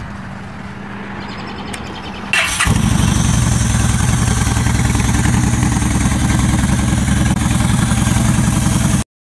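Yamaha Stryker's 1300cc V-twin with a Cobra aftermarket exhaust being started: a steady low hum, then a short crank about two seconds in, and the engine catches. It then idles loudly with fast, even exhaust pulses until the sound cuts off abruptly near the end.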